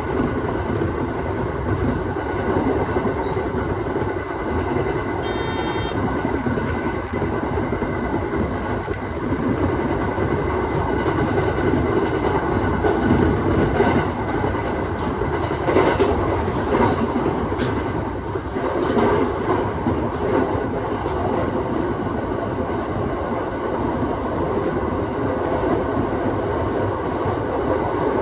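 Aoimori Railway 701-series electric train running at speed: steady rumble of wheels on rail with a faint motor whine. There are sharp wheel-over-joint knocks about 16 and 19 seconds in, and a brief high-pitched tone about five seconds in.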